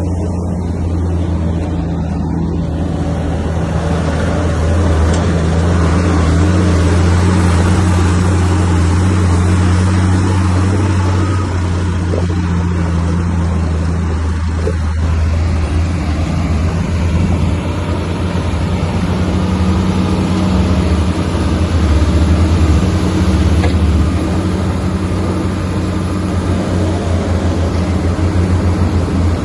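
Heavy diesel engine of earthmoving machinery running steadily under load, with its low note shifting about halfway through.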